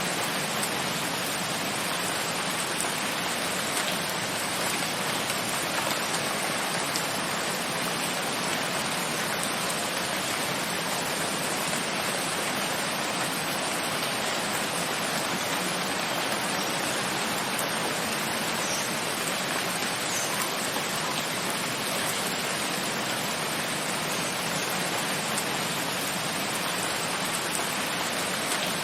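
Steady rain falling, an even continuous hiss with faint scattered drop ticks.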